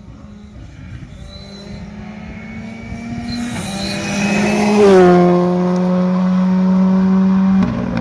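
Rally car at full throttle passing by: the engine note rises in pitch and loudness as it approaches, drops in pitch as it goes past about five seconds in, then holds loud until it changes abruptly near the end.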